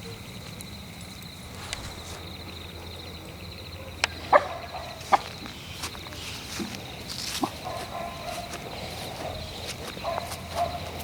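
Night forest ambience: a steady high insect trill, a few sharp cracks about four to five seconds in, and a wavering animal-like call in the second half.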